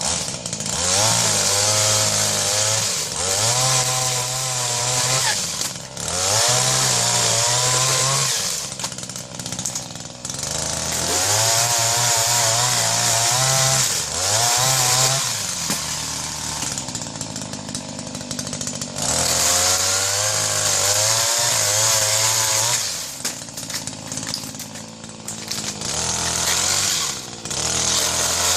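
Tasco TPS 260 chainsaw revved hard again and again, each burst at high speed lasting a few seconds, with the pitch wavering, before it drops back to a lower idle between bursts.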